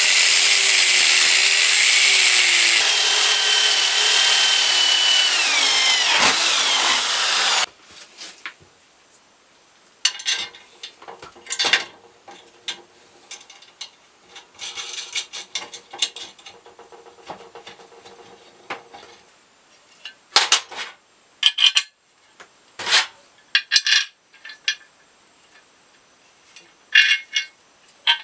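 A power tool running loud for about eight seconds, its whine sliding down in pitch just before it stops. It is followed by scattered short scraping strokes of hand work on the material.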